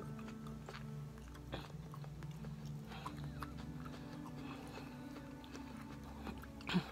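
Close-miked chewing of a mouthful of shrimp and cabbage stir-fry, with small scattered clicks over a faint steady low hum. A short louder sound comes near the end.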